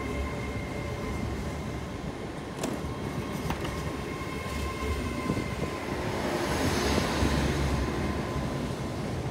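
Great Western Railway Hitachi Class 80x Intercity Express Train moving along the platform and away: a steady rumble with a constant whine, two sharp wheel clicks a few seconds in, and a swell of noise about two-thirds of the way through.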